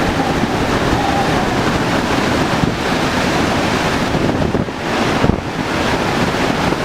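Hurricane Michael's wind blowing hard and buffeting the microphone in a steady loud rush of noise.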